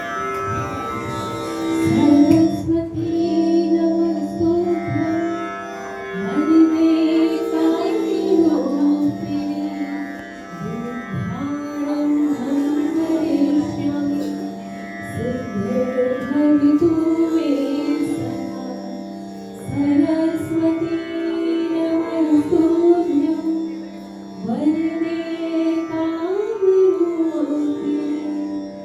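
A woman sings a devotional Sanskrit shloka to Saraswati in Indian classical style, with ornamented, gliding phrases over a steady drone. The phrases break off briefly every few seconds.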